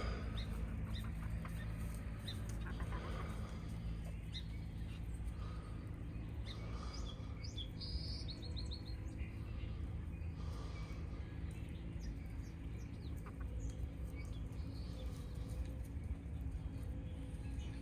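Birds chirping in short, scattered calls, with a quick run of repeated notes about eight seconds in, over a steady low rumble.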